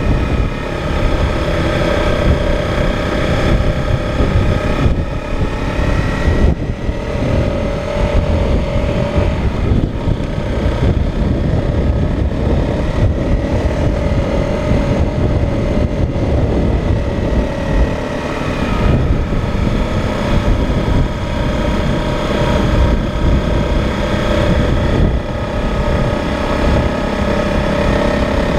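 Motorcycle engine running steadily at road speed, its note drifting a little up and down, under heavy wind buffeting on the microphone.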